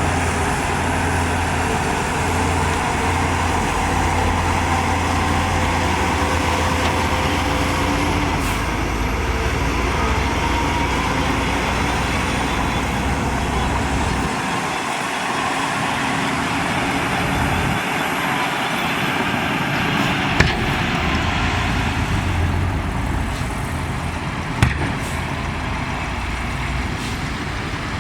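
Heavy earthmoving machinery's diesel engine running steadily. Its deep low rumble drops away about halfway through, and two short sharp knocks come later on.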